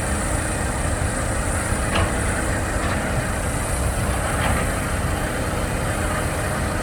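Heavy diesel engine running steadily, with a few faint ticks over it.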